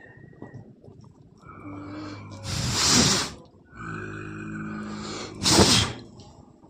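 Leopard hissing and snarling in two sharp, breathy bursts, about three seconds in and again near the end, the sound of an irritated cat. Steady background music begins about four seconds in.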